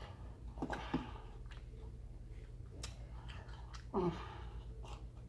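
Close-up chewing of a pulled pork sandwich with coleslaw, with wet mouth clicks. There are short hums about a second in and again about four seconds in, over a steady low hum.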